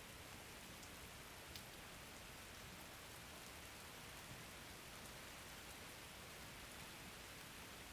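Faint, steady rain falling, an even hiss with the odd single drop ticking out.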